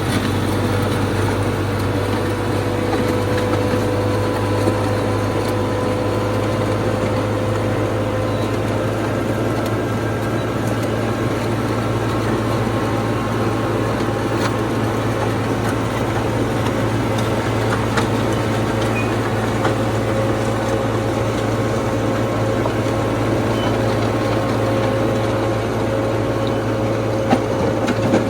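Allis-Chalmers HD5 bulldozer's two-stroke Detroit Diesel 2-71 engine running steadily under work, with a deep hum and only small shifts in engine speed.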